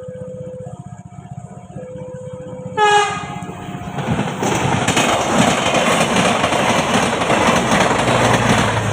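A steady warning tone that alternates between two pitches about once a second, then a short, loud train horn blast about three seconds in. From about four seconds the train passes close by, loud and rushing, with a low steady engine hum joining near the end.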